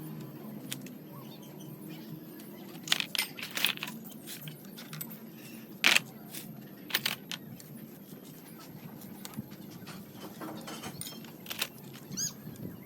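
Metal tools and parts clinking and knocking now and then, the loudest knock about halfway through and a short metallic ring near the end, over a low steady hum.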